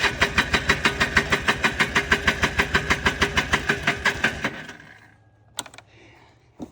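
Electric starter cranking the 1995 Polaris Trail Boss 250's two-stroke engine, an even chugging of about eight compression strokes a second, for about four and a half seconds. It does not catch, then winds down, and two sharp clicks follow. The owner blames fuel delivery for this crank-no-start.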